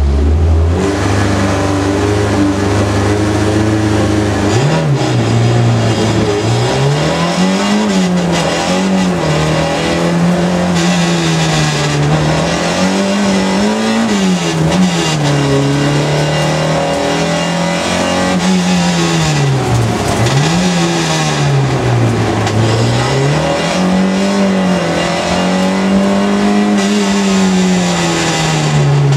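Car engine heard from inside the cabin during a slalom run. It idles steadily at the start line, then revs up hard about four and a half seconds in, and keeps climbing and dropping in pitch over and over as the car accelerates, shifts and brakes through the course.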